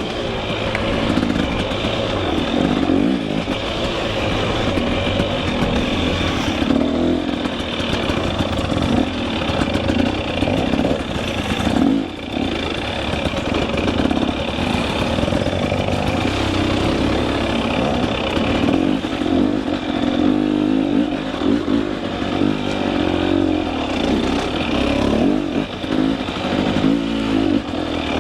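KTM 300 EXC two-stroke enduro engine being ridden on a trail, the throttle opening and closing so the engine note rises and falls.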